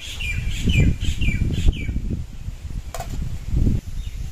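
A bird calling in a quick series of short falling chirps, about three a second, that stop about two seconds in and come back near the end. Under it are low thumps and rumble, which are the loudest sound, and one sharp click about three seconds in.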